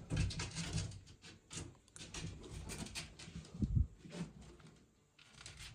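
A door being opened: a run of knocks, rattles and scrapes, with one heavier thump a little past the middle.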